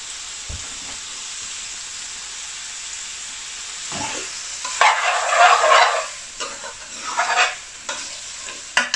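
Chicken, tomato and spring onion sizzling steadily in an aluminium frying pan. About four seconds in, a metal spoon starts stirring and scraping through the food in a few louder strokes.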